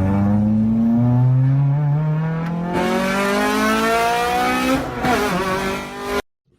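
An engine revving up, its pitch rising steadily for about five seconds before dropping sharply, as at a gear change, then running on until it cuts off suddenly near the end.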